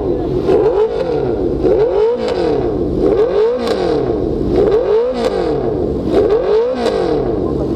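Honda CBR650F's inline-four engine through an aftermarket exhaust, revved repeatedly in place: about five blips of the throttle, each rising and falling in pitch, roughly one every second and a half.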